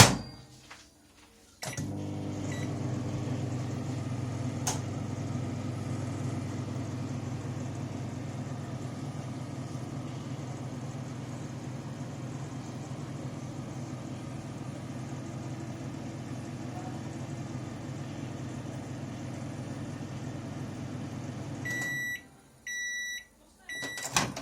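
Microwave oven running with a steady hum, with a single click just before it starts, then three short end-of-cycle beeps as it stops.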